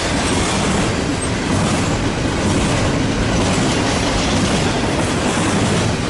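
Long double-stack container freight train rolling past close by, with a steady loud rumble of wheels on rail and some clickety-clack.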